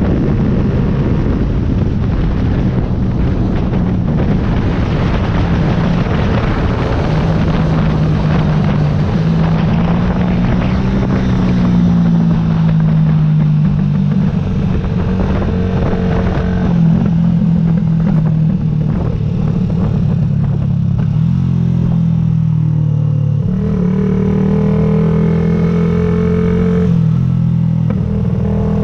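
Yamaha YZF-R125's single-cylinder four-stroke engine running on the move, its pitch rising and falling with throttle and gear changes. Heavy wind noise on the microphone covers the first half and then eases.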